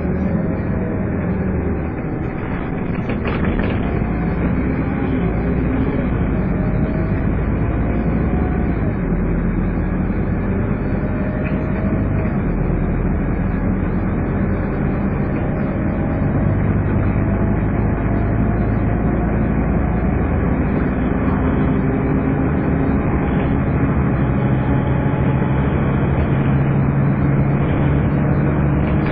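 A Scania N230UD double-decker bus's five-cylinder diesel, heard on board while driving, with its vacuum-cleaner-like 'hoover' whine over road noise. The engine note rises several times as the bus accelerates, and it is a little louder in the second half.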